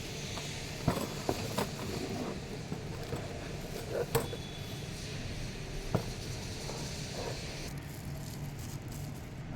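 Hand tools and metal engine parts clinking and knocking a handful of times over a steady low hum.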